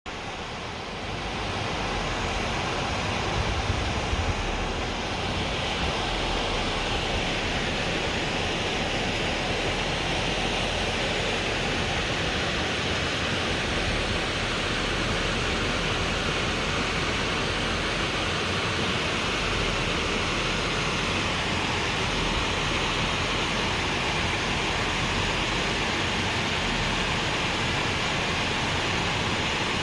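Waterfall: water falling and splashing in a steady rushing roar, rising in level over the first second or two.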